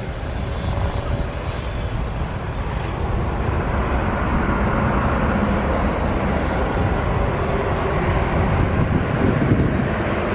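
Passenger jet's engines running as it passes close by, growing gradually louder, with strong wind buffeting the microphone.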